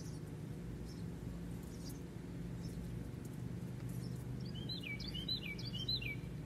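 A bird calling outdoors: three quick repeated phrases near the end, each sliding down in pitch, over a steady low hum.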